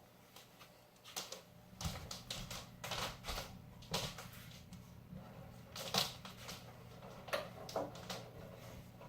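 Irregular soft clicks and knocks of handling over a low steady hum. No guitar is being played.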